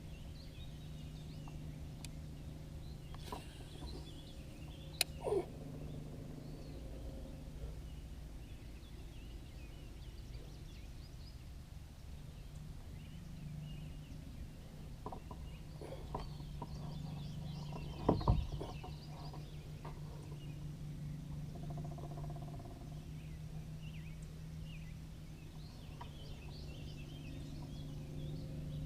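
Outdoor ambience with a steady low hum, faint scattered bird calls, and two sharp knocks: one about five seconds in and a louder one a little past halfway.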